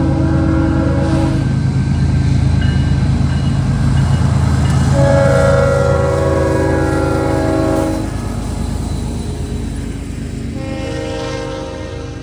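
Diesel freight locomotive's air horn sounding long chord blasts for a grade crossing: one ends about a second in, another runs from about five to eight seconds in, and a third starts near the end. Underneath is the deep rumble of the diesel engine and rolling freight cars, loudest around five seconds in and fading after about eight seconds as the locomotive passes.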